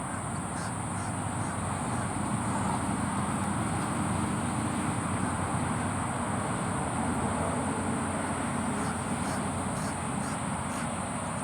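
Steady high-pitched insect chorus, crickets, over a low background rumble, with a few faint short ticks near the start and again near the end.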